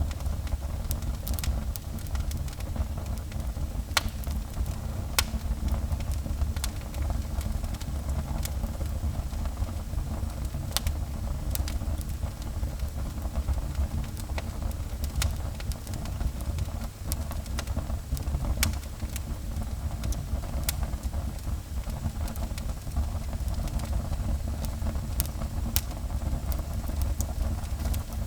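Wood fire burning in a fireplace: a steady low rumble with irregular sharp crackles and pops from the burning wood.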